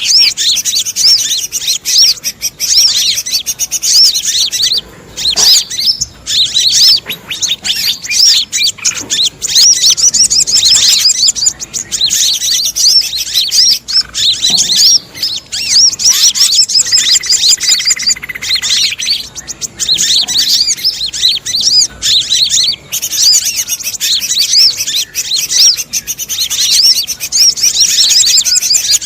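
Bird-lure recording: a dense, continuous chorus of high, rapid chirps and twitters built on olive-backed sunbird calls, layered with the noisy chatter of other small birds. A brief steady, lower whistled note sounds about seventeen seconds in.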